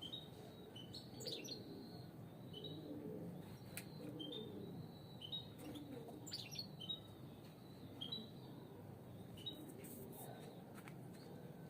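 Caged European goldfinches chirping: short high calls repeated irregularly, with a few sharp clicks among them.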